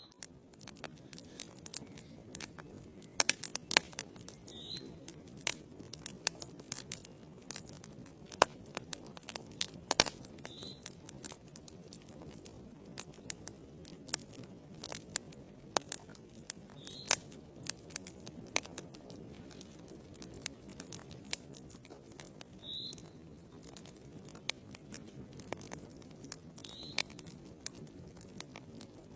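Wood fire burning in a fireplace: logs crackling with irregular sharp pops, a few louder than the rest, over a low steady rush of flame.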